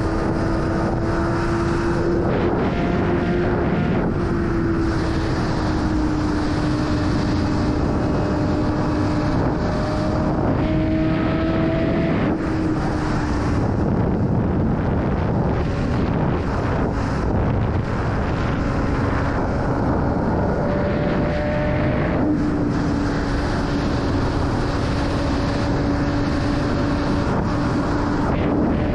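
BMW S1000RR inline-four engine running at a fairly steady speed under riding, its note drifting gently up and down in pitch, under heavy wind rush on the microphone.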